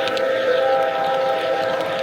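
G-scale model locomotive's sound unit sounding its horn, a held chord of several steady tones.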